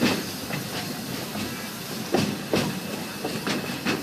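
Narrow-gauge railroad passenger train rolling along, its wheels clacking sharply over rail joints in pairs against a steady running rumble.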